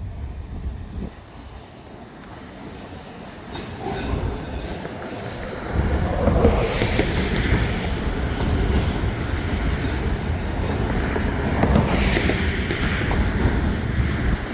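Freight train rolling past close by: steel wheels on the rails grow louder about four to six seconds in, then a steady rumble and clatter of passing cars.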